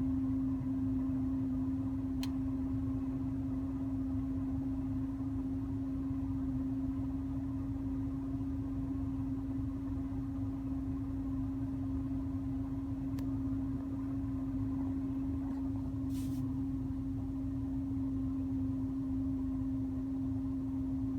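The air-conditioning system of a 2014 Nissan Super Sentra, running with the compressor engaged, gives a steady, droning hum at one constant pitch over a low rumble. This is an abnormal noise that comes only with the compressor on, not from the blower.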